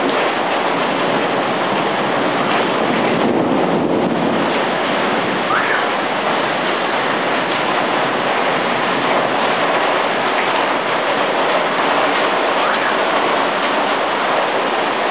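Heavy wind-driven rain pouring down: a steady, dense rush of noise.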